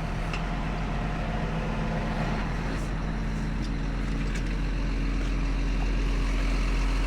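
Tow truck engine running steadily, its note stepping up slightly and getting a little louder about four seconds in, with a few faint ticks.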